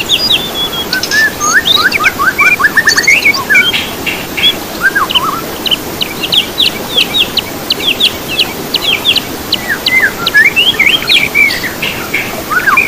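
Songbirds singing and chirping busily, with several birds overlapping in rapid runs of short, high, sweeping notes.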